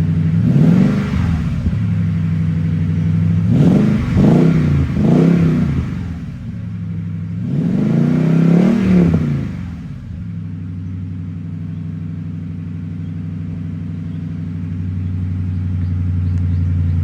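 Toyota Sequoia's engine, breathing through a Magnaflow muffler with the resonator removed, blipped up four times (once, then twice close together, then one longer rev), then settling to a steady idle that swells a little near the end.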